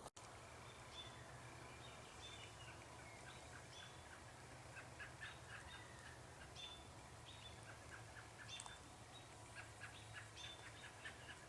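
Faint birdsong in the woods: many short chirps and calls from small birds, scattered and sometimes in quick runs, over a low steady hum.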